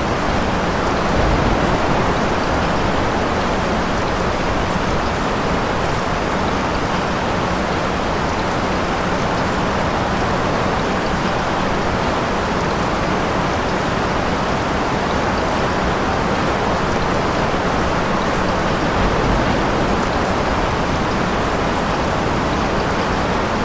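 Steady rain falling, an even hiss, with a brief low rumble about a second in and again near the end.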